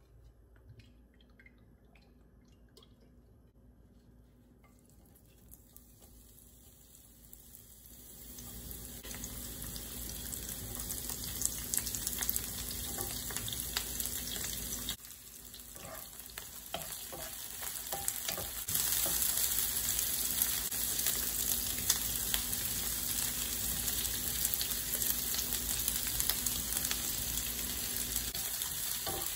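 Sliced onion and zucchini sizzling in olive oil in a frying pan as they are dropped in by hand. A few light clicks come first, then the sizzle starts faint, grows about eight seconds in, dips briefly about halfway, and comes back louder.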